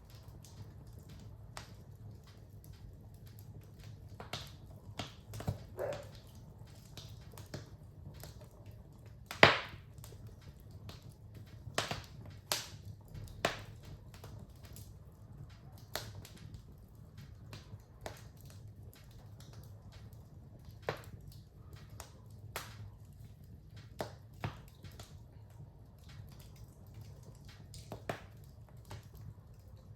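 Wood fire crackling in a fireplace: irregular sharp pops and snaps, one much louder about a third of the way in, over a low steady rumble.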